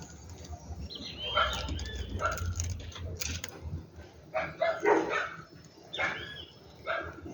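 A dog barking in short bursts, with bird calls, in three clusters.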